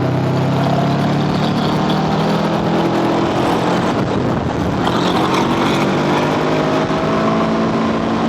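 Honda scooter engine running under way, its pitch climbing gently over the last few seconds as it speeds up, over steady wind rush.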